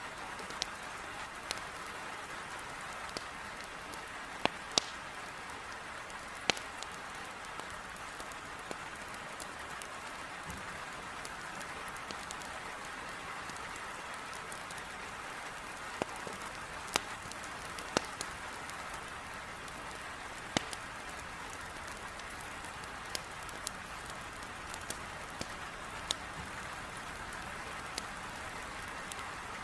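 Heavy rain hissing steadily against a window, with irregular sharp pops and snaps from a crackling wood fire.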